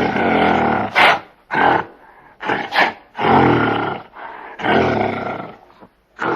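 A large animal calling: a series of deep, drawn-out calls about a second each, with short, sharp, higher sounds in between.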